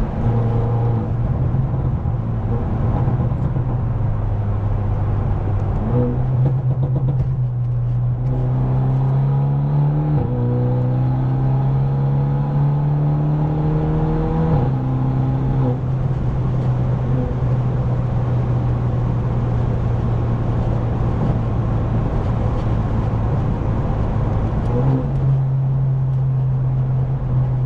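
Straight-piped BMW F30 328i's turbocharged four-cylinder engine and exhaust droning while driving. From about six seconds in, the pitch climbs in two stretches as the engine revs up, then drops suddenly about halfway through and holds steady.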